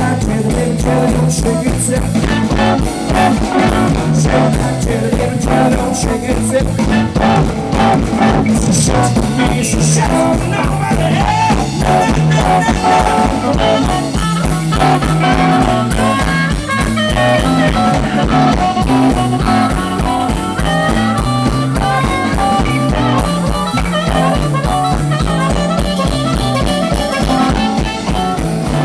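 Live blues band playing an instrumental passage: guitar and drum kit over a repeating low line with a steady beat.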